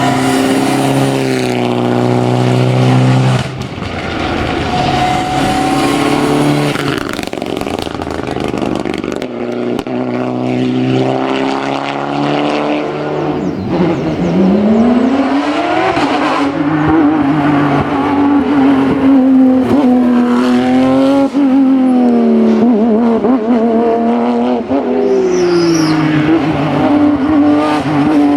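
Rally cars at full throttle on a hillclimb: a Mitsubishi Lancer Evo VIII's engine rises in pitch and drops at each upshift. About halfway through, a Porsche 991 GT3's flat-six takes over, revving high with repeated rising sweeps and dips between gears.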